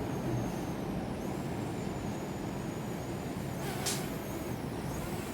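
DJI Mini 2 quadcopter's propellers whirring as it hovers close in for a landing, with a thin high motor whine that wavers in pitch as it is steered. A short hiss comes about four seconds in.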